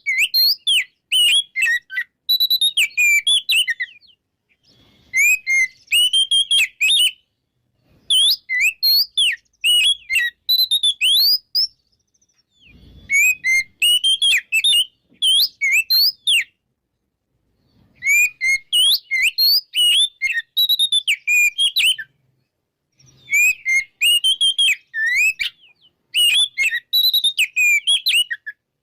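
Oriental magpie-robin singing loudly in full, open song. Rapid phrases of varied clear whistles and chirps come in bursts of a few seconds, with short silences between them.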